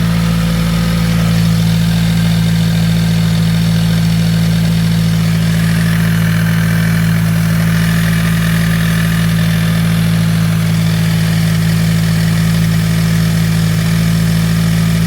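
Subaru WRX's turbocharged flat-four boxer engine idling steadily.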